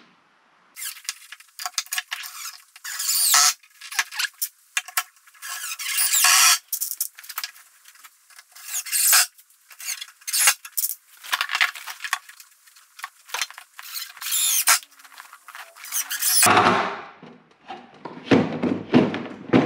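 Cordless drill-driver running in repeated short bursts of varying length with a high, wavering squeal, driving number 8 screws into plywood. Near the end a fuller, deeper sound takes over.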